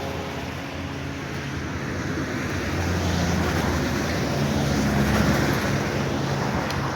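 A motor vehicle's engine running, with low tones that shift slightly over a steady rushing noise.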